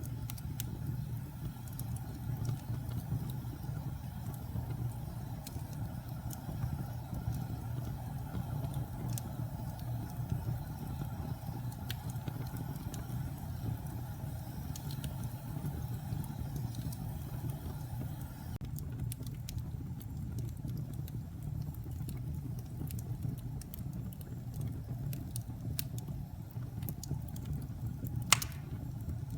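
Wood fire in a fireplace crackling: scattered sharp pops and crackles over a steady low rumble, with one louder pop near the end.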